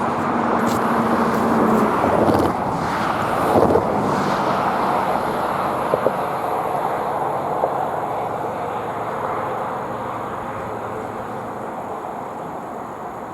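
Train rolling through a grade crossing, pushed by an ALCO RS-1 diesel locomotive: a steady rail rumble with a few sharp clicks from the wheels, fading gradually as the train moves away.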